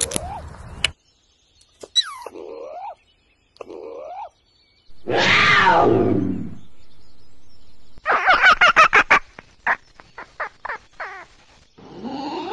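A string of different animal calls, one clip after another. The loudest is a long call falling in pitch about five seconds in; a quick run of rapid calls follows.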